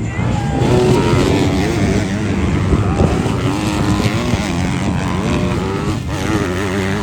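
Several motocross bike engines revving on the track, their pitch rising and falling as they accelerate and shift.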